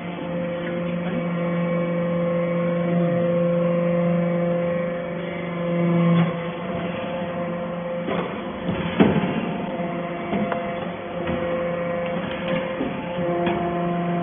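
Hydraulic metal-shavings baler running: the power unit hums steadily, the hum changes and drops out about six seconds in, then there are clattering metallic knocks, loudest about nine seconds in, before the hum comes back near the end.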